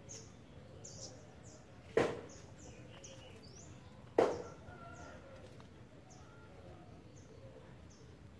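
Outdoor ambience of small birds chirping, short high chirps repeating over and over. Two sudden, sharp, loud sounds stand out, about two seconds apart.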